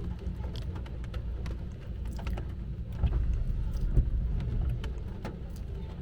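Raindrops ticking irregularly on a car's roof and windshield over a steady low rumble. The rumble swells about three seconds in, with a single thump near four seconds.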